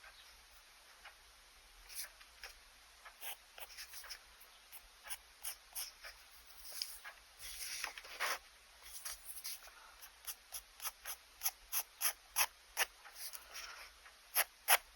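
Pen nib scratching on sketchbook paper in short sketching strokes, sparse at first and then quicker, about two or three a second, with one longer drawn stroke about eight seconds in.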